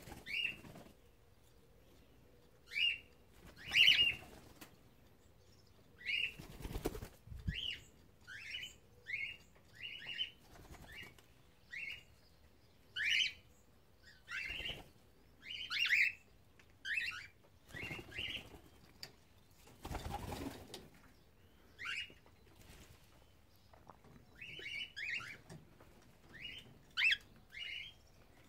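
Cockatiels giving short, sharp chirping calls over and over, about one a second, with bursts of wing flapping a few times, the longest about a third of the way in and again past the middle.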